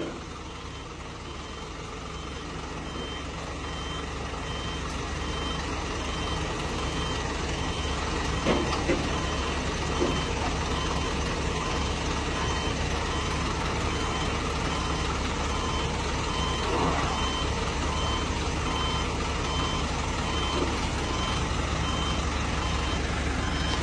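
Regular high warning beeps sounding over the steady low running of a HOWO Sinotruk crane truck's diesel engine, which grows gradually louder over the first several seconds. A few short knocks come in the middle.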